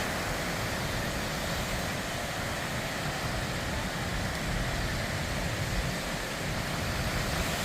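Steady wind rushing over the microphone, a continuous noise with a fluttering low rumble.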